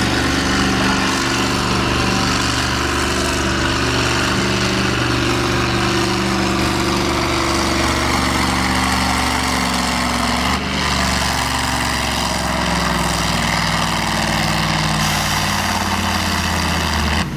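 Naturally aspirated pulling tractor's engine running loud and steady, with a brief dip about ten and a half seconds in.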